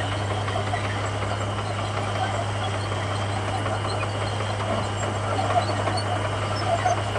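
Komatsu bulldozer's diesel engine running steadily with a constant low drone.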